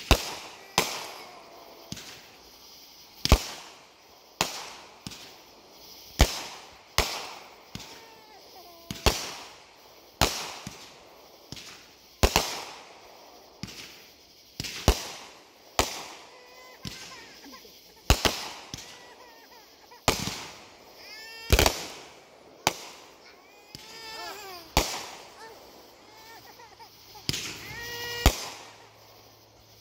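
Consumer aerial fireworks going off in a steady string: sharp bangs about once a second, each trailing off in a short echo. A few high wavering tones sound between the bangs near the end.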